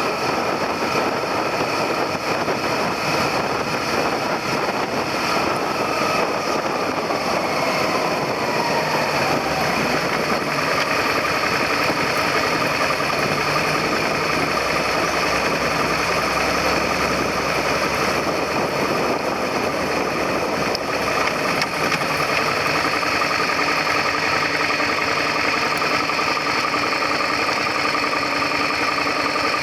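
Suzuki SV400's V-twin engine, heard from a handlebar-mounted camera. Its pitch falls as the bike slows about a quarter of the way in, then it settles into a steady idle.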